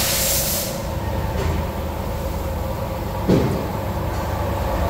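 Steady low rumble of a small car's engine at idle, heard from inside the cabin, with a brief hiss at the start and a single thud about three seconds in.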